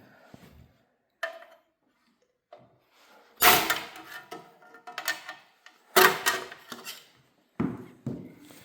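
Clunks and knocks of tools and engine parts being handled during a small-block engine teardown: a light click, then two loud hits a couple of seconds apart, and a few smaller knocks near the end.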